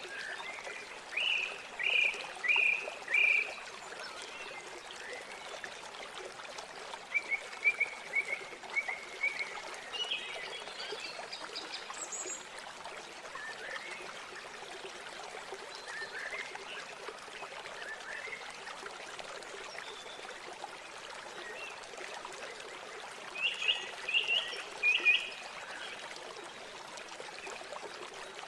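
River water running steadily, with birds calling over it in short phrases of repeated high notes: one cluster about a second in, several between about seven and twelve seconds, and another near the end.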